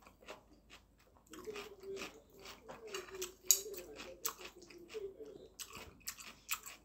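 Close-up chewing of crunchy fried food, with many sharp crunches and mouth clicks. From about a second in, a wavering whine-like tone runs underneath for several seconds, breaks off near the end, then returns.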